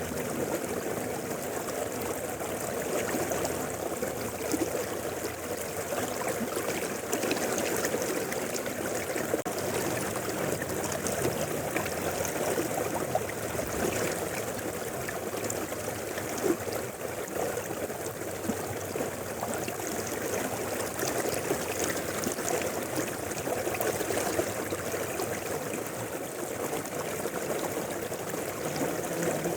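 A river flowing, a steady rush and trickle of moving water with small splashes here and there.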